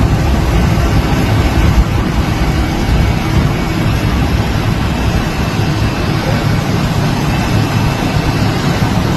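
Loud, steady rumble and rushing noise of a moving vehicle.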